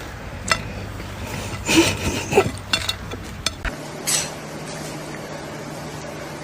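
A series of light clicks and knocks, scattered and irregular, over a low steady background hum.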